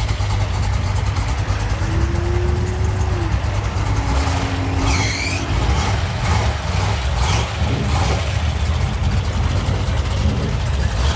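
Cars and trucks passing on a busy boulevard, a steady deep engine rumble throughout, with a brief high-pitched squeal about five seconds in.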